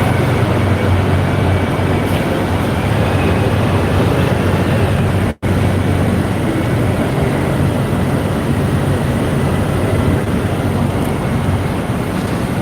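Loud, steady street-traffic and vehicle rumble, cut by a brief moment of complete silence about five seconds in.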